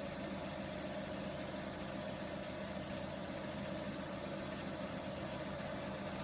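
Dyas 3 BDC-1200 machine with bandsaw running steadily: an even motor hum with a constant mid-pitched whine over it.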